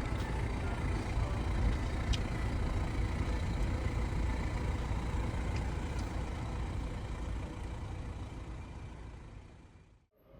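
Steady low rumble of a vehicle on the move, fading out near the end.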